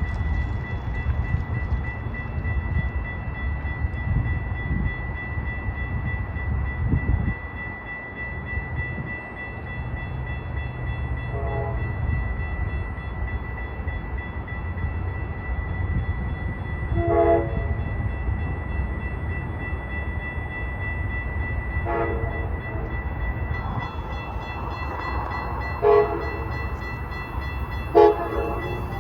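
Freight train approaching with a steady low rumble while its locomotive horn sounds a series of short blasts, faint at first and louder toward the end.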